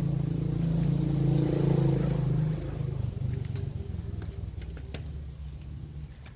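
An engine running with a steady low note, loud at first, then fading away after about two and a half seconds.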